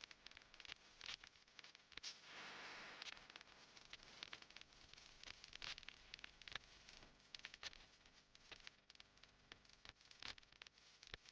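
Faint scattered clicks, taps and rustling from items being handled during kitchen cleaning, with a brief soft hiss about two seconds in.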